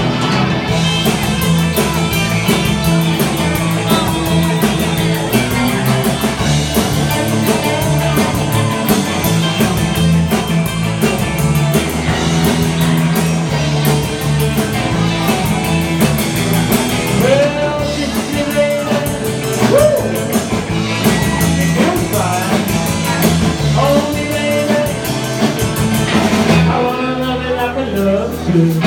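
Rock and roll band playing: electric guitar and drum kit, with some singing.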